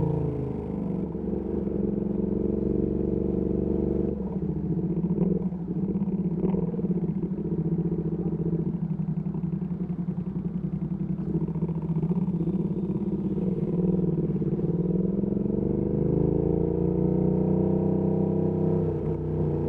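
Ducati Panigale V2S V-twin through a Termignoni exhaust, at low, steady revs in city riding. The revs fall away at the start, dip and pick up again about three quarters of the way through, and drop once more near the end.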